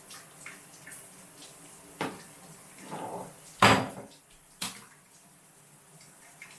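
A few sharp knocks and clatters of hard objects being handled and set down, the loudest about three and a half seconds in, over a faint steady hiss of running water.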